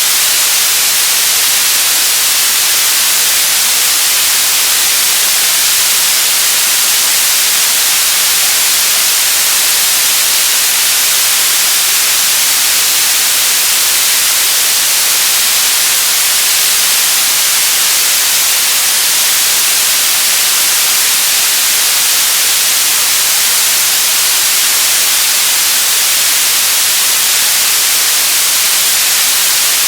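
Television static: a loud, steady hiss of white noise, bright and heavy in the highs, with no change throughout.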